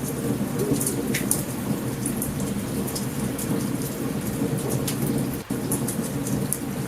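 Steady rain with a continuous low rumble of thunder, and frequent sharp crackling pops from a campfire. There is a brief dropout about five and a half seconds in.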